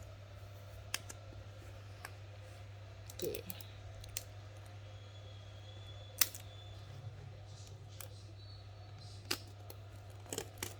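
Scattered small clicks and taps of an Apple AirPods Pro cardboard box being handled and opened, with one sharper click about six seconds in, over a steady low hum.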